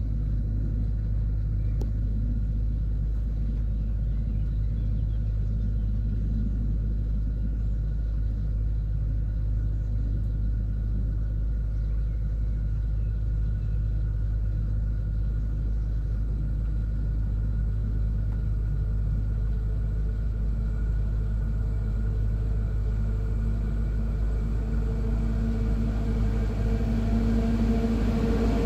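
A steady low rumble, then an approaching electric freight locomotive hauling track-maintenance machines. Its steady hum fades in about two-thirds of the way through and grows louder over the last several seconds as the train nears.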